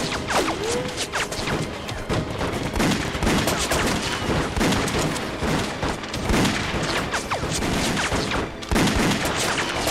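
Sustained battle gunfire: many shots overlapping in a rapid, continuous fusillade.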